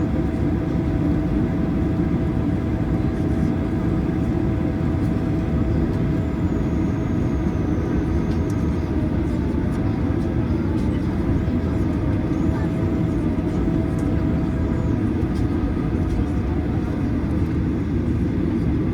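Boeing 737-900ER cabin with the CFM56-7B engines idling as a steady rumble. A faint whine over it changes pitch and breaks off several times while the flaps are lowered and the control surfaces checked.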